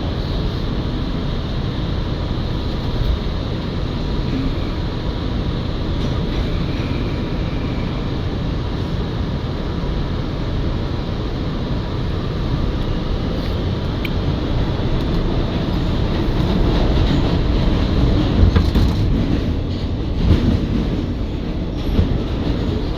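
R211A subway car running between stations, heard from inside the car: a steady rumble of wheels on the track, with a faint steady whine over it. It grows louder in the last third, with a few sharp knocks near the end.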